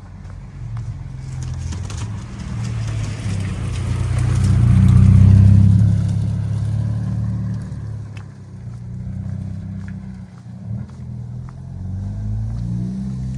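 A car passes close by on a wet road: its engine hum and tyre hiss build to a peak about five seconds in, then fade. Another engine is heard drawing near at the end.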